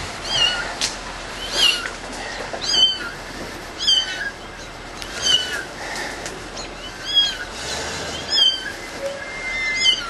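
A cat meowing over and over, about nine high-pitched calls roughly a second apart.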